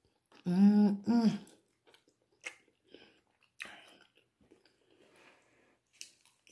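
A person chewing king crab meat, with soft wet mouth clicks and smacks coming irregularly. A short voiced sound comes about half a second in.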